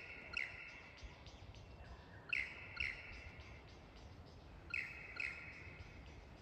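Lyrebird calling: three pairs of sharp notes, each sweeping down and settling into a brief held whistle, the two notes of a pair about half a second apart and the pairs about two and a half seconds apart, over a low steady background noise.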